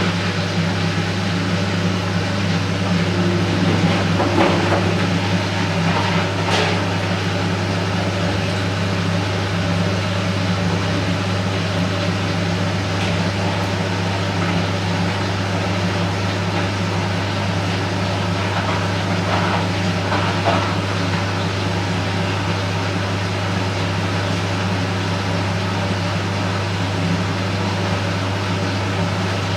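Candy Smart Inverter front-loading washing machine running, a steady hum with a few brief knocks about five seconds in and again near twenty seconds in.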